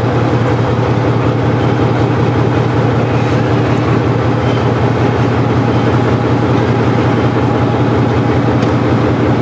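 Marshall tractor engine running steadily, with a constant low hum and fast, even pulsing.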